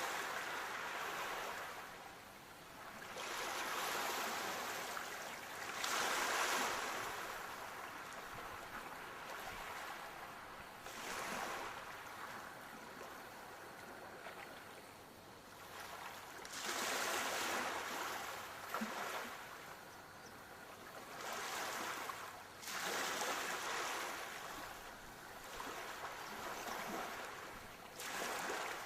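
Sea waves breaking and washing ashore, in surges of hiss that swell and fade every four to six seconds.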